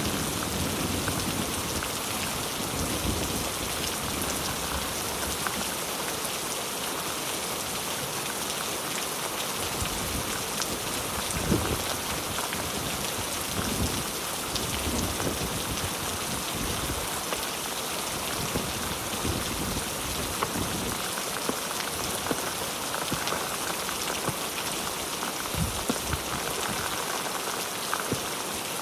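Steady heavy rain pattering on a surface, a dense even hiss of drops. A low rumble fades out at the start, and scattered low thumps come through the rain.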